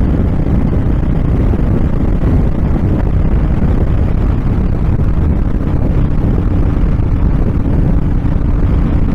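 Heavy wind buffeting on the microphone over the steady running of a Honda VTX1300's V-twin engine at cruising speed.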